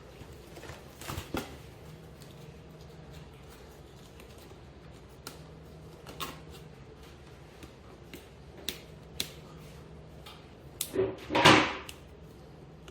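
Scattered clicks and knocks of small prize boxes being handled and opened, with a louder cluster of knocks about eleven seconds in, over a faint steady hum.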